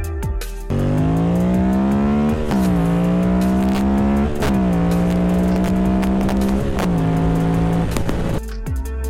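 A motor vehicle's engine accelerating through the gears: its pitch climbs, drops sharply at two gear changes and slightly at a third, then cuts off suddenly.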